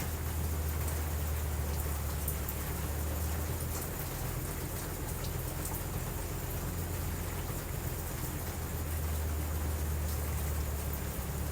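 Steady rain falling, with scattered drop ticks and a low rumble underneath that swells about a second in and again near the end.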